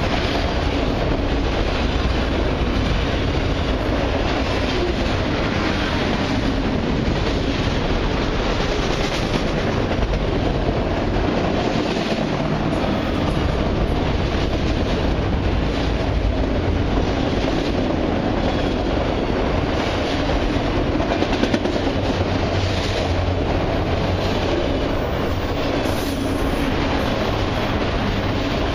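A long freight train's cars rolling steadily past, a continuous loud rumble of steel wheels on the rails with clicking over rail joints.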